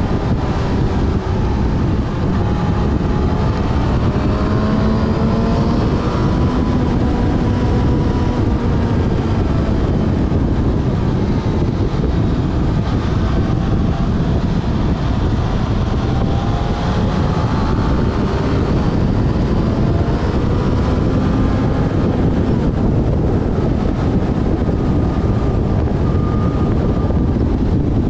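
Yamaha Fazer FZ6S's 600 cc inline-four engine running on the move, its pitch rising and falling several times as the revs change, under heavy wind noise on the microphone.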